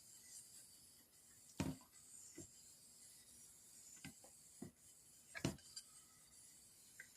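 Near silence in a small room, broken by about five soft, short taps and clicks spread over several seconds.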